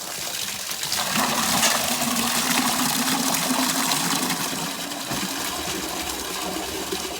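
Backed-up water gushing and splattering out of a cast-iron drain line just opened at its cleanout; the line was clogged. The rush builds about a second in and keeps running.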